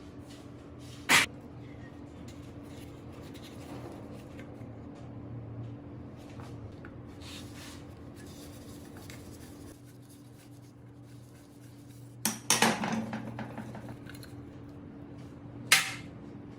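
Metal parts being handled on a workbench, giving sharp metallic clinks: one about a second in, a short clatter a few seconds before the end, and one more clink near the end, over a steady low hum.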